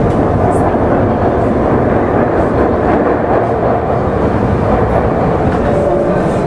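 Tokyu 9000 series electric train running, heard from inside the passenger car: a steady rumble of wheels on rail and under-floor noise. Faint motor tones begin to show near the end.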